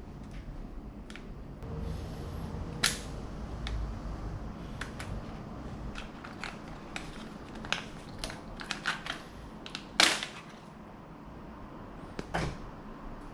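Scattered clicks and knocks of tools and parts being handled during a motorcycle battery change. The sharpest knock comes about ten seconds in, and another about three seconds in.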